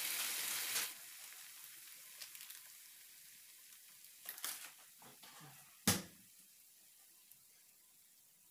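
Chickpea, tomato and onion mixture sizzling in a frying pan, cut off abruptly about a second in. After that it is faint, with a few light clicks and one sharp knock just before six seconds.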